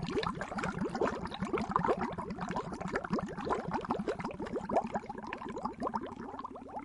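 Water boiling: a dense, steady bubbling made of many short, rapidly rising blips.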